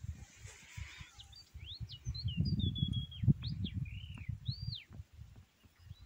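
A songbird singing a quick run of whistled notes that swoop up and down, from about one and a half seconds in until about five seconds, over a low buffeting rumble on the microphone.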